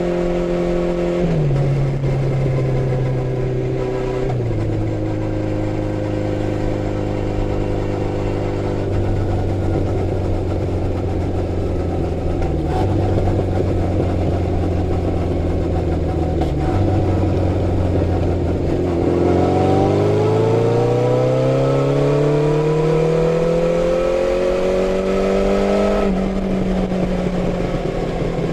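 Honda CB750 Four's air-cooled inline-four engine running while the bike is ridden. It holds a steady speed for a long stretch, then revs up in one long rising climb from about two-thirds of the way through, and drops in pitch at a gear change near the end.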